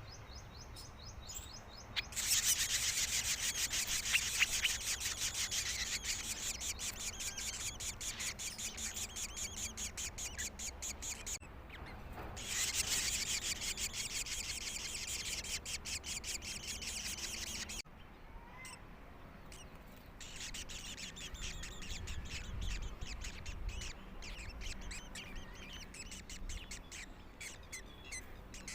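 Young birds chirping in rapid, continuous runs of high calls. The chirping starts a couple of seconds in, breaks off abruptly twice, and is quieter in the last third.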